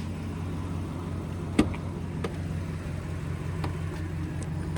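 Roush-supercharged 6.2-litre V8 of a Ford F-150 Raptor idling with a steady low hum, with one sharp click about one and a half seconds in and a few faint ticks after.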